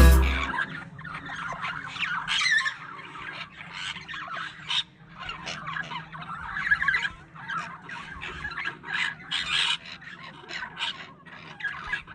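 Budgerigars chattering: a busy, irregular run of short chirps, warbles and squawks.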